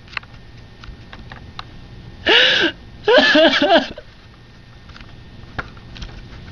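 A person sobbing: two short, high, wavering wails about two and three seconds in, between sniffs and gasping breaths.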